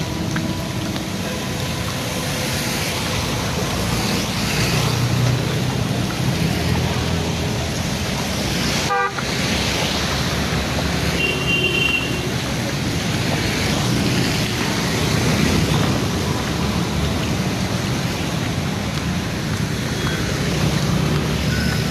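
Road traffic moving along a flooded street: steady engine rumble under a continuous rushing hiss of tyres and water, with a short car horn toot about halfway through. The sound drops out for an instant a little before the middle.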